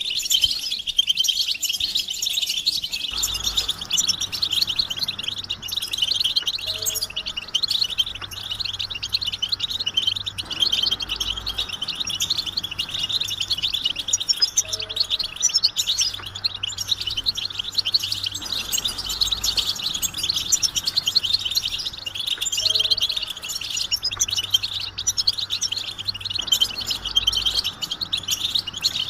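A group of European goldfinches twittering in a dense, unbroken chorus of rapid, high chirps: the excited mating and readiness calls used to stir silent male goldfinches into song. A faint low hum joins about three seconds in.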